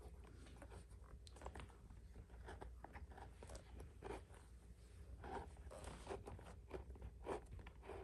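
Leather lace being worked and pulled through the lacing holes of a Marucci Acadia H-web baseball glove. The sound is faint, irregular leather scraping, crackling and handling, with a few louder scrapes in the second half.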